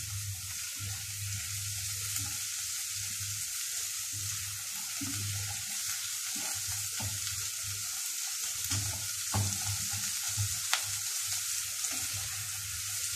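Sliced leeks sizzling in butter in a saucepan, a steady high frying hiss, while a spatula stirs and scrapes them around the pan, with one sharp tap against the pan near the end. The leeks are being softened until wilted.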